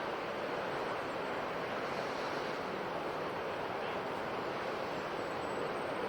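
Ocean surf washing on a shore: a steady wash of breaking waves with no single crash standing out.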